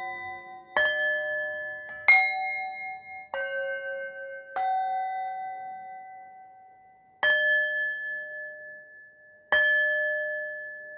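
Slow meditation music of struck bell tones: six single notes at different pitches, each ringing out and slowly fading before the next.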